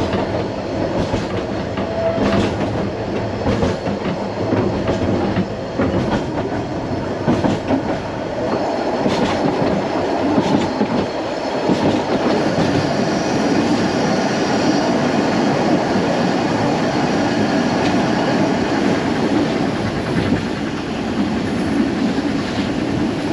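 Isle of Man Steam Railway train running along its narrow-gauge line, heard from inside a moving carriage: a steady rumble of the coaches, with the wheels clicking over rail joints about once a second.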